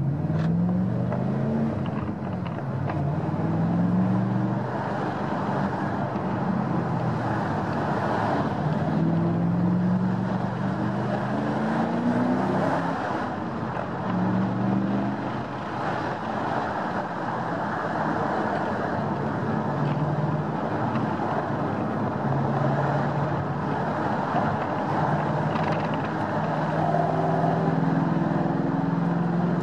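2009 Ford Mustang's 4.6-litre V8 heard from inside the cabin while driving, its pitch climbing and dropping back several times as it accelerates and shifts. It starts with the electric exhaust cutout valves closed, sounding like the stock exhaust, and near the end the valves are opened by remote.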